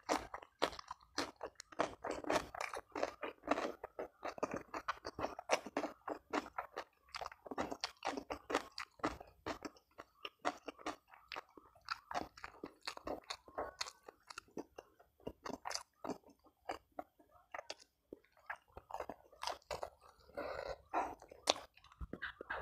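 A person chewing crunchy food with the mouth, a fast, uneven run of wet crunches and crackles, with a brief lull about three-quarters through.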